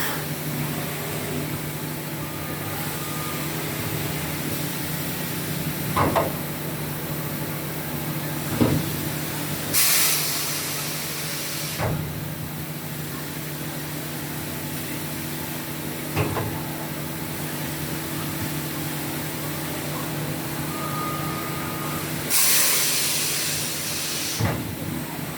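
5-axis CNC wood router running with a steady hum, punctuated by several short clunks and two sharp hisses of compressed air, one about ten seconds in and one near the end.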